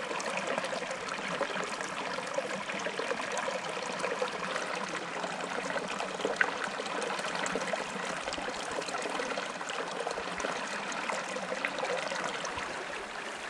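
Creek water babbling steadily, with small splashes and trickles.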